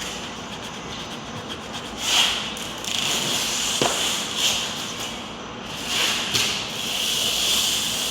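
Soft rubbing strokes that swell and fade every second or so, as pigment color is worked during a finish touch-up.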